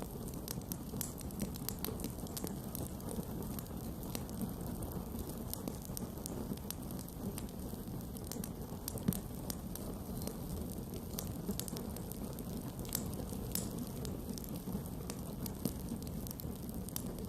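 Wood campfire burning: a steady low rush of flame with frequent sharp crackles and pops, one louder pop about nine seconds in.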